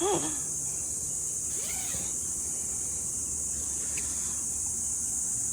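Steady high-pitched drone of insects such as cicadas or crickets, unbroken throughout.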